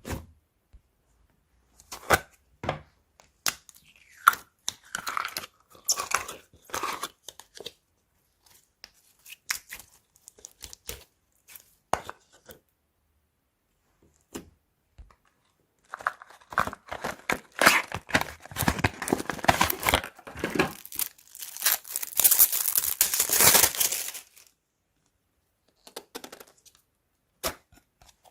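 Crunchy slime being squeezed and worked by hand, crackling and popping in scattered bursts with silent gaps. The crackling thickens into a longer, louder run a little past halfway.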